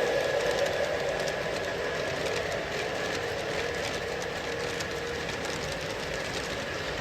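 O scale Lionel model train, two Lion Chief Dash 8 diesels pulling a string of tank cars, running on three-rail track: a steady rolling hum with many small clicks from wheels over the rail joints, growing a little quieter over the first few seconds.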